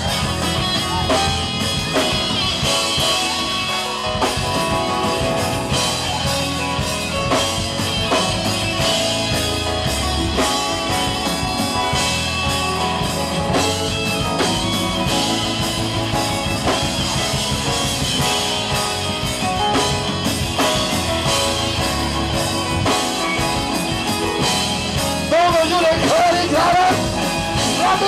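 Live gospel band playing an uptempo praise break with electric guitar and a steady drum-kit beat. A voice with a wavering pitch comes in near the end.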